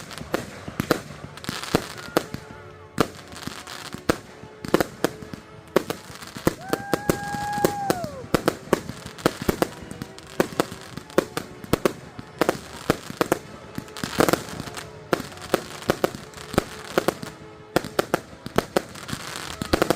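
Fireworks display finale: a rapid, irregular barrage of sharp bangs and crackling bursts, many close together. About seven seconds in, a whistling tone holds for a second and a half, then drops away.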